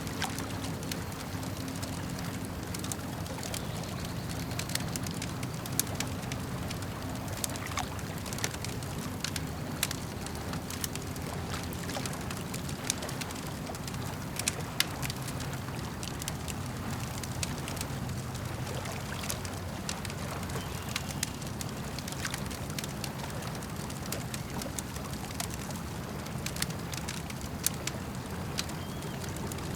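Campfire crackling with frequent sharp pops and snaps at irregular moments, over a steady low wash of lake water.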